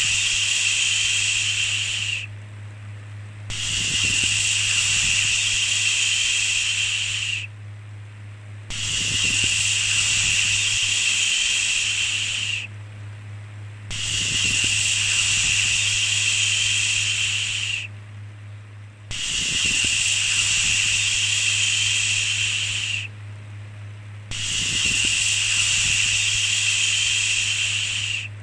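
A shushing 'shhh' sound repeated in even bursts about four seconds long, separated by gaps of about a second and a half. A steady low hum runs underneath.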